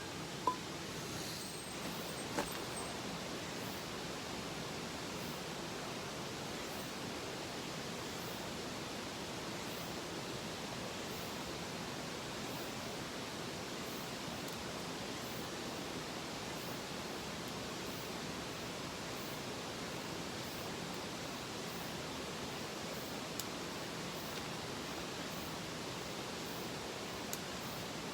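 Mountain stream rushing steadily, an even wash of water noise, with a couple of faint clicks early on and near the end.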